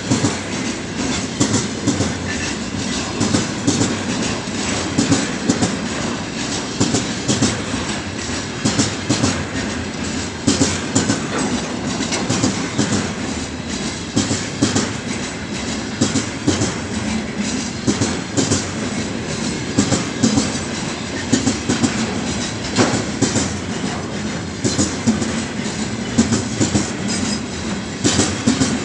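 Heavy freight train's wagons rolling past at speed, their wheels clicking over the rail joints in a continuous, uneven clatter.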